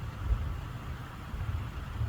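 Low rumbling of a thunderstorm over a steady hiss, swelling briefly about a third of a second in and again near the end.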